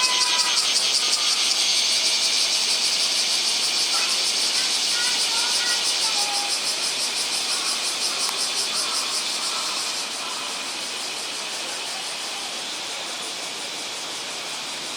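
Loud chorus of cicadas, a dense, rapidly pulsing high buzz that drops in level about two-thirds of the way through. Faint short chirps sound beneath it.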